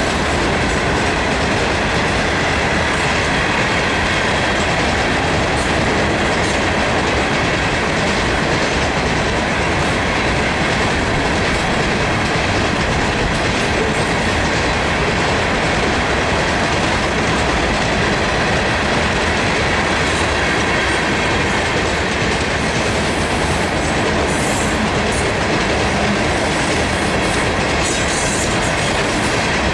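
Ore cars of a BNSF freight train rolling steadily past on the rails: a continuous, even rumble of steel wheels on track.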